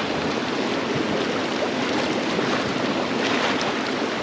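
Neretva river water rushing steadily, a continuous even hiss.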